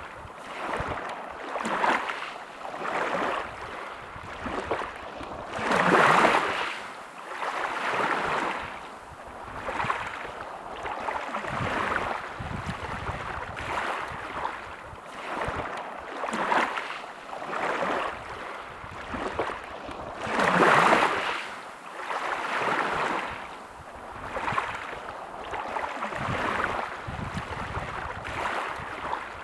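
Sea waves washing in, a steady rush that swells and fades every second or two, with two bigger surges about six seconds in and again past twenty seconds.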